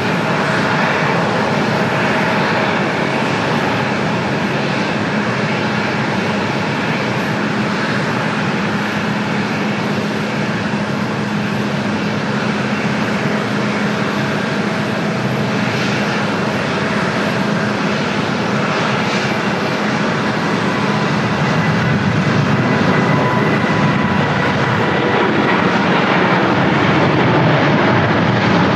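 Airliner engines running: a loud, steady roar with faint steady whining tones, growing slightly louder near the end.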